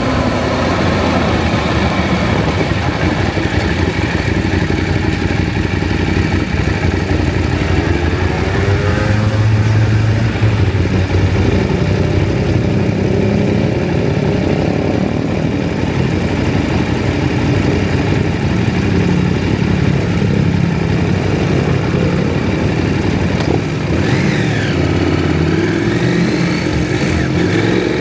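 KTM 790 Adventure's parallel-twin engine running under way, its pitch rising as it accelerates about a third of the way in.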